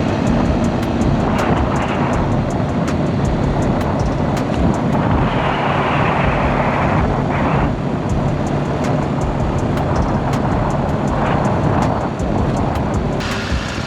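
Motorcycle engine running steadily at riding speed, with a rushing noise of wind and road that swells and eases, strongest about five to seven and a half seconds in.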